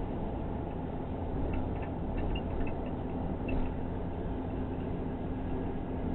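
Car engine and road noise heard from inside the cabin: a steady low drone with a constant hum, and a few faint ticks about two to three seconds in. The owner reports abnormal noises and uneven turbo boost, the car alternately losing power and surging.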